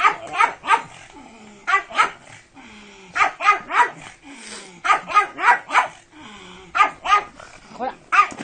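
Pug barking in quick bursts of two to four sharp barks, with short pauses between the bursts.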